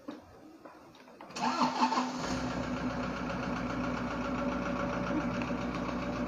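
A Toyota Innova's engine is started about a second and a half in, catches quickly and settles into a steady idle.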